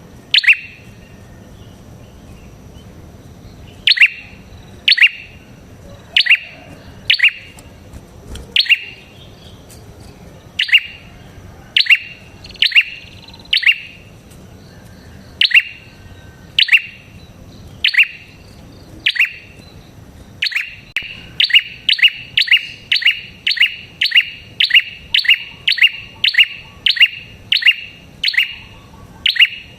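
Prenjak kepala merah (red-headed prenjak) calling: a series of sharp, high chirps, each falling quickly in pitch. They come about once a second at first, then speed up to roughly two a second in the last third.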